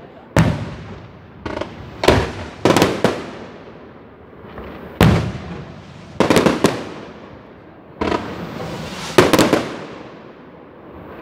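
Aerial fireworks shells bursting overhead, about a dozen sharp bangs at irregular intervals, some in quick pairs, each trailing off in a rolling echo.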